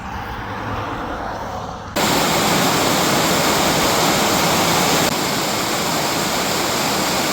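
Steady rush of wind and road noise from a moving motorcycle. It grows over the first two seconds, then cuts in much louder and stays steady.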